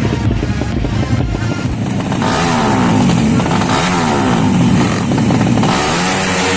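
Drag-racing motorcycles running flat out, their engine pitch climbing and dropping again and again as they shift gears, with two engines overlapping. A music track with a steady drum beat plays until about two seconds in.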